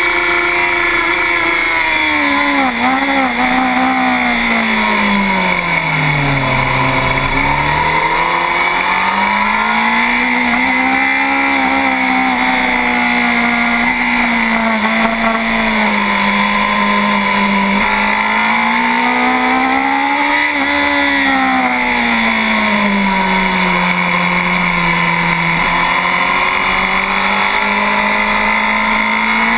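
On-board sound of a 2009 Honda CBR1000RR superbike's inline-four engine at racing speed, with a steady rush of wind. The engine note drops low about six to seven seconds in as the bike slows for a corner, then climbs again and keeps rising and falling with the throttle through the following bends.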